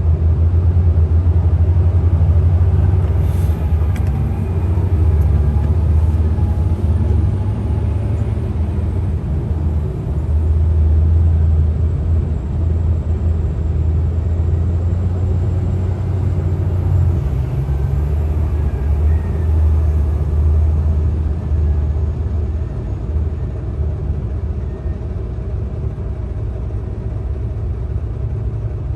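Heavy diesel machinery running, most likely a mining dump truck's engine: a steady low rumble that swells and eases a little over time.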